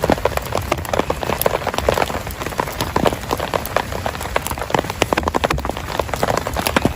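Heavy rain falling, a dense, irregular run of separate drop impacts on a surface.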